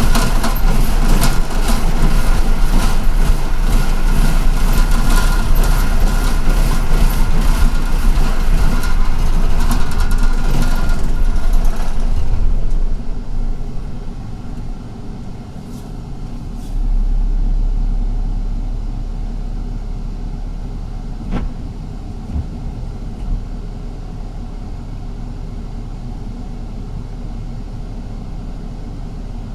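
Ride noise inside a city bus: engine, road noise and rattling, loud and busy for about twelve seconds, then dropping to a quieter steady hum as the bus eases off, with a brief low swell a few seconds later.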